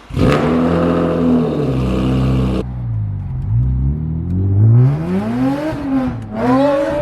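BMW E46 M3's straight-six engine running under way. The note is steady at first, then the revs fall and climb, with a short drop about six seconds in, like a gear change, before climbing again.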